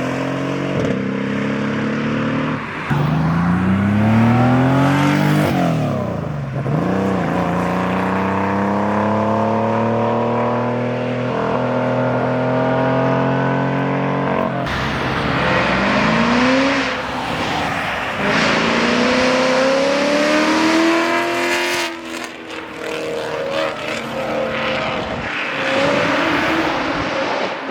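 A sports car's engine revving and pulling away under acceleration, its pitch climbing in several long pulls and dropping between them.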